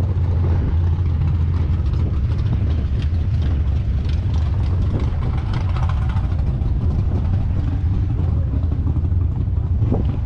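Steady low rumble of car engines running at the car show, with faint voices in the background.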